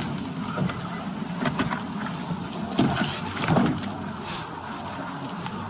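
Car engine running steadily, with rustling, clinking and a few knocks, the loudest about three seconds in.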